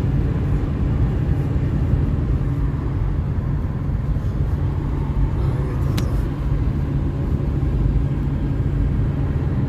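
A car driving along the road, with a steady low rumble of engine and tyres. A single sharp click about six seconds in.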